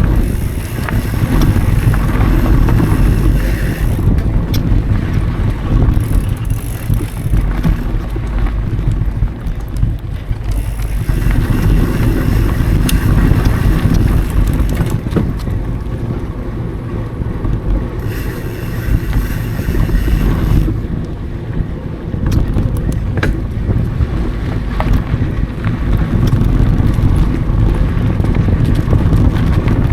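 Mountain bike rolling fast over dry dirt singletrack, with wind buffeting the action camera's microphone. Steady low tyre rumble that swells and eases, with scattered sharp clicks and rattles from the bike.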